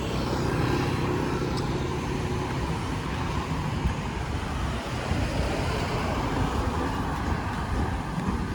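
Steady street traffic noise: a continuous low rumble of vehicles, with an engine hum more noticeable in the first couple of seconds.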